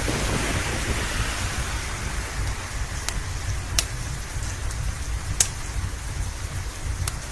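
Steady rain with a low rumble underneath, swelling briefly at the start. A wood fire crackles with about four sharp pops through the second half.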